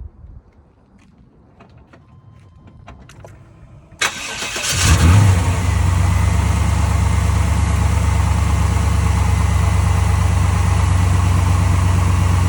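Car engine cold-started: after a few faint clicks, it fires about four seconds in, flares up loudly for a moment, then settles into a steady idle.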